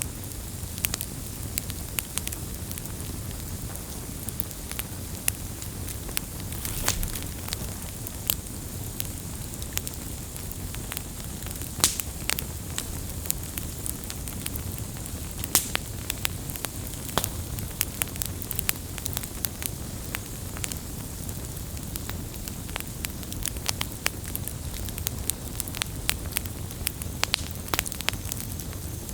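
Campfire burning with a steady low rumble of flames and frequent sharp, irregular crackles and pops of burning wood.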